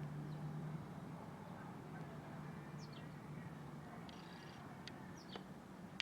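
A few short, high bird chirps that fall in pitch, heard twice about three and five seconds in, over a steady low hum.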